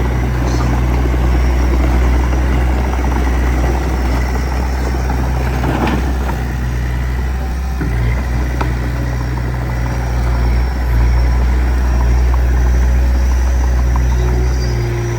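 Diesel engine of earthmoving machinery running steadily with a deep, even drone, easing briefly a couple of times.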